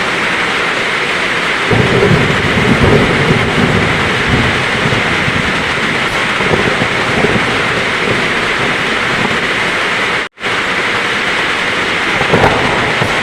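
Heavy rain pouring steadily, with a low roll of thunder rumbling from about two seconds in for a few seconds and another short rumble near the end. The sound drops out for a split second about ten seconds in.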